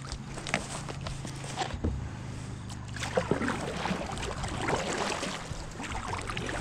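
Kayak paddle strokes in the water: blades dipping and dripping, with small splashes and knocks against the sit-on-top hull.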